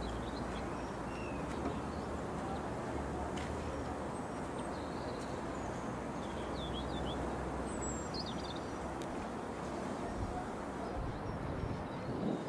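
Small birds chirping a few short times over a steady low rumble and hiss of outdoor background noise.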